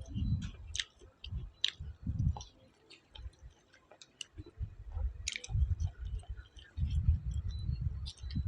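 A person chewing food close to the microphone, in irregular bouts with small sharp clicks and smacks; the chewing pauses briefly around three to four seconds in.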